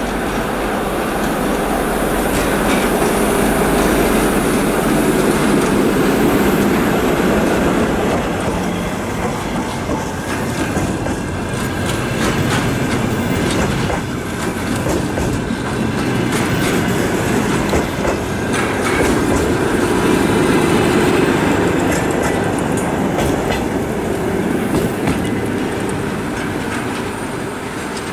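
A ChME3 diesel shunting locomotive hauling the SM2-GM snow-clearing train rolls slowly past. Its wheels run steadily over the rails, with clicks as they cross rail joints.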